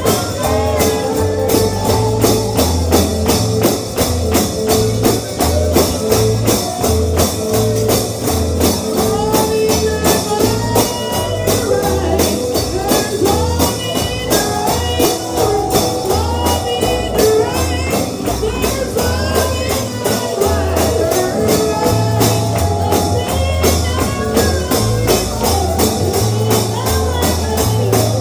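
Bluegrass gospel band playing, led by a tambourine shaken on a fast, steady beat over a walking bass line, with guitar and a melody line on top and no clear singing.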